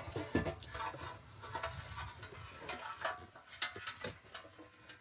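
Scattered light clicks and knocks of metal parts and bolts being handled while a transmission pan is fitted back in place under the truck.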